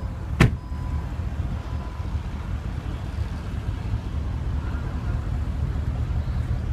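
A single sharp click about half a second in, the Porsche Panamera's trunk latch releasing, over a steady low rumble.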